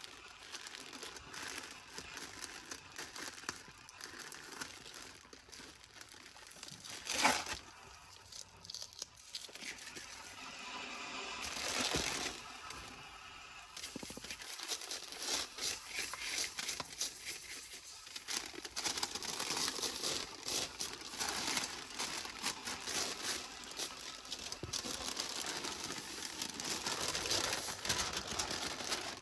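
Crinkling and crumpling of litter, plastic and paper, being handled and pulled apart, an irregular crackle that goes on throughout, with one sharper knock about seven seconds in.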